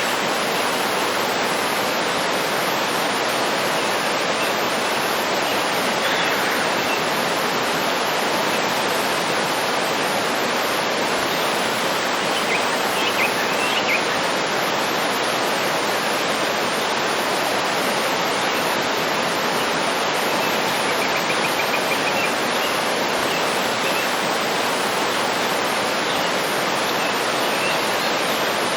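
Waterfall with a steady rush of water. A few faint bird chirps and one short trill come through it now and then.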